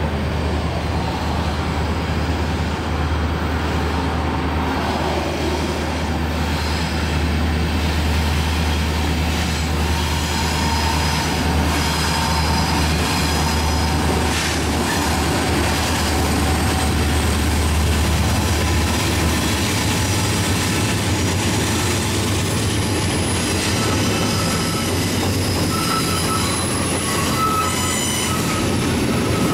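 Diesel-hauled freight train passing on a curve. The locomotives' engines drone low through the first two-thirds, then fade as the freight cars roll by with wheel flanges squealing in thin high tones.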